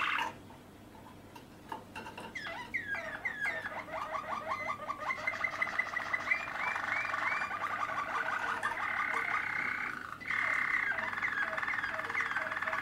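Malinois (Waterslager) song canary singing in long runs of rapid, repeated short notes and rolls, starting about two seconds in, with a brief break near the end.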